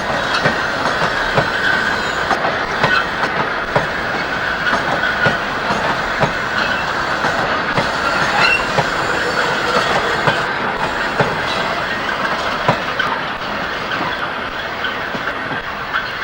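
A freight train's wagons rolling past, with a steady run of wheels clicking over rail joints and some high wheel squeal at times. The sound eases off slightly near the end.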